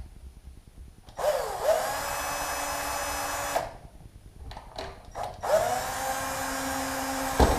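A power drill-driver driving screws into wood to fasten a door hinge, run twice for about two and a half seconds each. Its whine dips as each screw bites and then holds steady. A sharp knock comes near the end.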